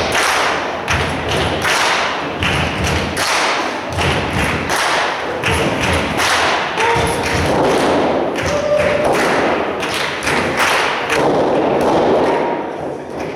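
Rapid, repeated thuds and slaps of wrestlers hitting each other and the ring canvas during a professional wrestling match, over a steady crowd noise with occasional shouts.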